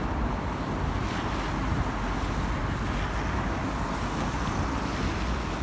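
Wind in a snowstorm buffeting the microphone: a steady low rumble with a hiss above it.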